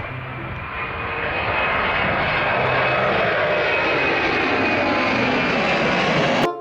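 A loud rushing engine noise that swells over the first two seconds and then holds steady, with a faint tone slowly falling in pitch. It cuts off abruptly near the end.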